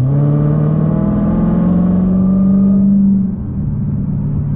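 Dodge Challenger Hellcat's supercharged 6.2-litre V8 heard from inside the cabin, pulling under throttle with its note climbing for about three seconds, then falling away abruptly to a lower, steadier note.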